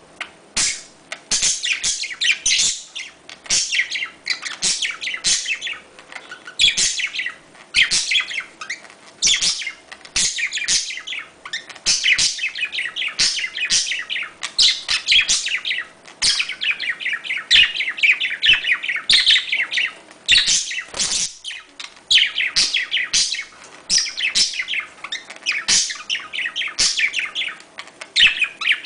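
Budgerigars chattering and warbling in a fast, continuous stream of chirps, the courtship chatter used to encourage budgies to mate, with short sharp clicks mixed in.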